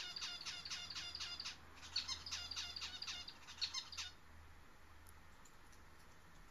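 A small bird chirping in a quick run of short, high calls, about five a second, stopping about four seconds in.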